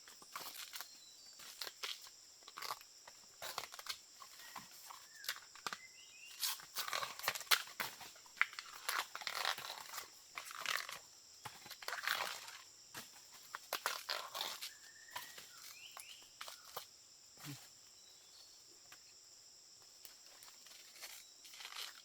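Dry vegetation rustling, crackling and snapping in quick irregular bursts, busiest through the middle, over a steady high insect drone.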